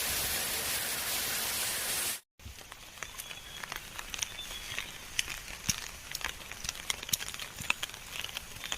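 Heavy rain falling in a steady hiss. About two seconds in it cuts off abruptly, and a quieter stretch follows with scattered drips and light taps.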